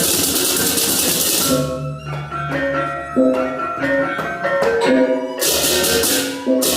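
Balinese baleganjur gamelan playing: crashing ceng-ceng cymbals drop out about a second and a half in, leaving the tuned gong-chime melody over a low pulsing gong, and the cymbals come back in near the end.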